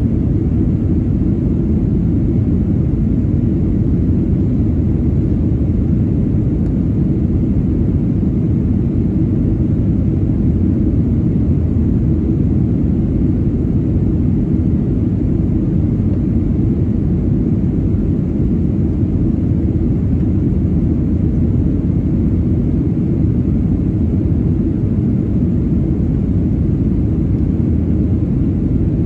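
Steady, even rumble of a Boeing 737-900ER's CFM56-7B engines and airflow, heard inside the passenger cabin.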